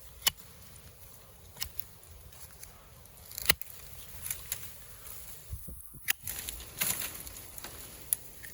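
Pruning shears snipping thorny yuzu shoots: a handful of sharp, separate snips, the loudest about three and a half seconds in.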